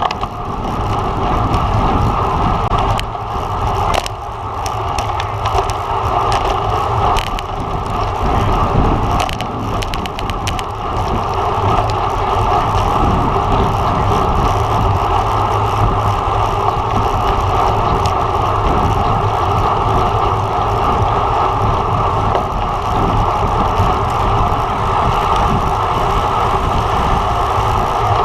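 Wind buffeting a bike-mounted camera's microphone during a road bike race, over steady tyre and drivetrain noise. Scattered sharp clicks come and go through the first ten seconds or so, then the noise runs on evenly.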